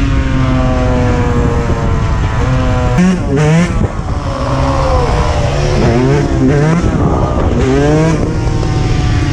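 Dirt bike engines running while riding, revving up and down so the pitch rises and falls again and again, with more than one engine heard at once in the second half.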